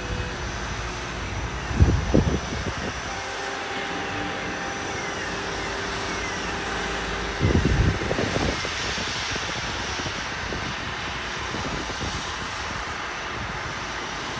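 Steady turbine noise from a jet aircraft on the apron, with two heavy clunks: one about two seconds in, and a double one around seven and a half seconds in.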